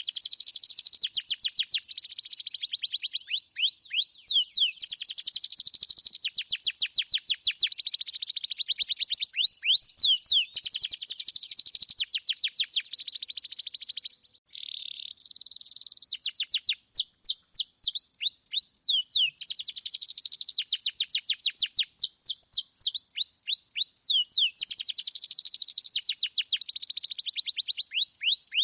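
Domestic canary singing continuously in long, high-pitched runs of rapid repeated notes (rolls) mixed with sweeping whistled glides. The song breaks off briefly about halfway through, then resumes.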